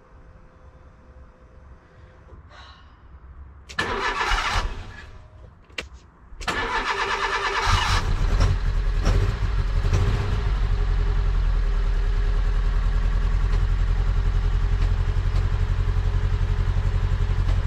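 Fiat Punto Mk1 petrol engine being started: the starter cranks briefly about four seconds in, cranks again a couple of seconds later, and the engine catches near eight seconds and runs with a loud pulsing beat. It is misfiring badly, which the owner later thinks is down to the HT leads having been fitted the wrong way round.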